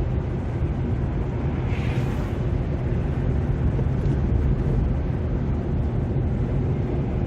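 Steady low drone of a car's engine and tyre noise heard from inside the cabin while driving, with a brief hiss about two seconds in.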